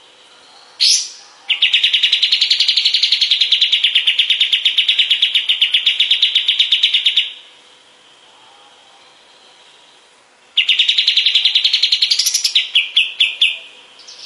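Kapas tembak singing: a short sharp note, then a long, rapid, even trill lasting about six seconds. After a pause a second trill starts and breaks up into separate notes near the end.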